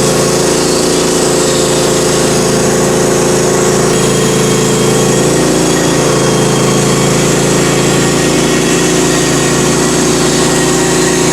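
Sawmill engine running steadily at constant speed.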